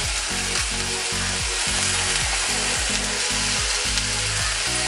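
Shredded boiled chicken and onion-tomato masala sizzling steadily in hot coconut oil in a frying pan, stirred with a wooden spatula.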